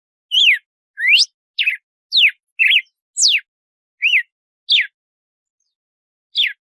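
Red-cowled cardinal (galo-de-campina) singing its 'açoite' song: a series of clear whistled notes, each a quick sweep up or down in pitch, about two a second. A pause of over a second comes before one last note near the end.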